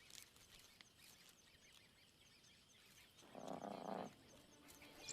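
Quiet wild ambience with faint, rapid high-pitched chirping. A short animal call lasting under a second comes about three and a half seconds in.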